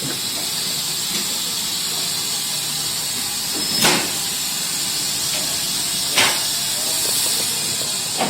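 Steam locomotive hissing steadily as it vents steam, with two sharp clanks partway through.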